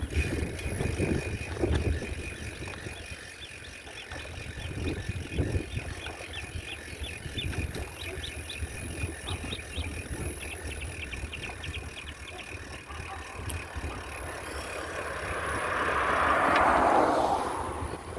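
Bicycle ride, with wind rumbling on the microphone and light ticking through the middle. A rushing noise swells to its loudest near the end, then fades.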